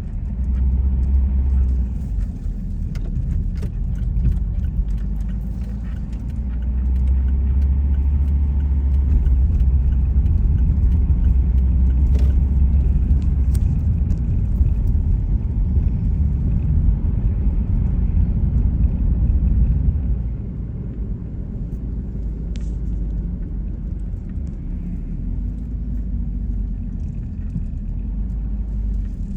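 A car driving along a road: a steady low rumble of tyre and engine noise, louder for a stretch in the middle and then settling quieter about two-thirds of the way through.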